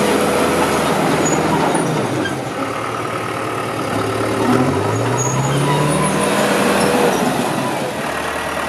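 John Deere 450G LGP bulldozer's four-cylinder diesel running under varying throttle. It drops in speed about two seconds in, revs back up around five seconds, and eases off again near the end.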